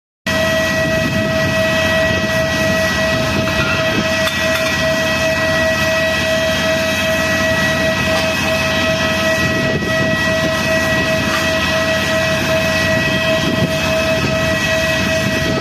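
Boeing 777-300ER jet engines at takeoff thrust: a loud, steady roar with a constant high whine over it.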